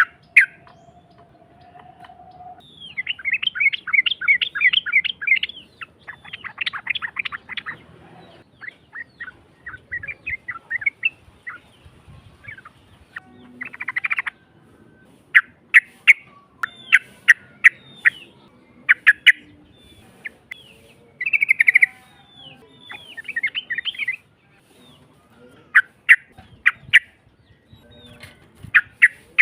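Yellow-vented bulbul (trucukan) song played as a lure recording: harsh, rapid chattering phrases, some long, repeated with short pauses between them.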